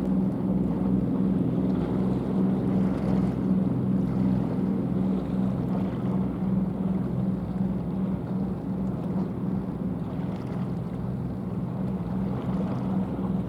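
Small cement carrier's diesel engine running steadily as the ship passes, a low throbbing drone with a little wind noise on the microphone.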